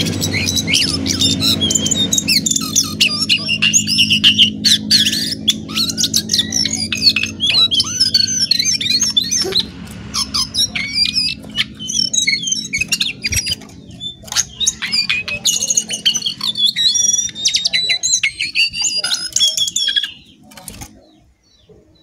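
Jongkangan bird calling in a fast, busy chatter of high squawks and chirps, stopping shortly before the end.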